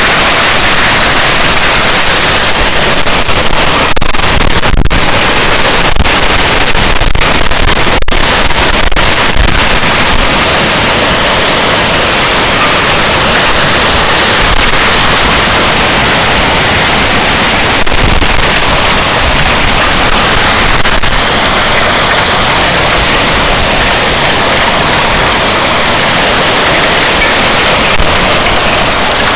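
Tornado-force storm wind and heavy rain: a loud, continuous rushing noise, with gusts swelling and easing.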